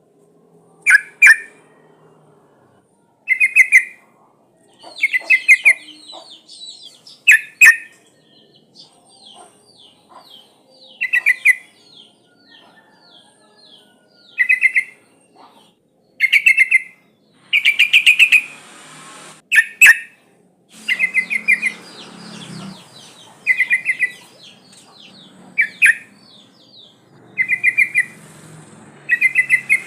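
Yellow-vented bulbul (trucukan) calling: short loud bubbly phrases repeated about every two seconds, with a softer run of quick high chirps between them in the first half.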